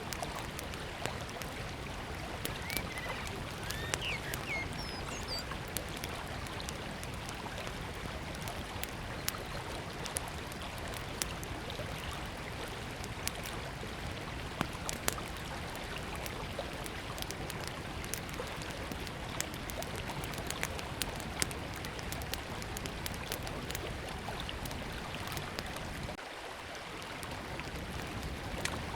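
Small wood campfire crackling and popping in sharp irregular snaps over the steady rush of a flowing river. A bird chirps briefly a few seconds in.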